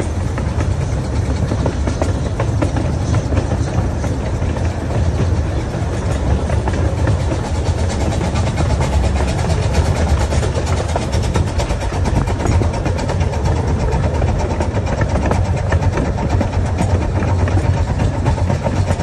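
Ride noise aboard a miniature steam train in motion: a steady low rumble of the cars running on the track, with many small clicks and rattles throughout.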